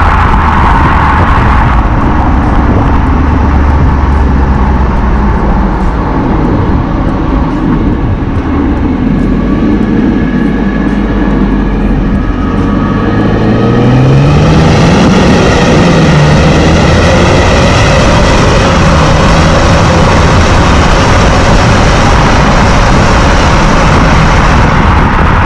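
Mercedes GLK 320 CDI's V6 diesel exhaust, running with its particulate filter removed: a steady low drone, then about fourteen seconds in the revs rise and hold at a higher, slightly louder note.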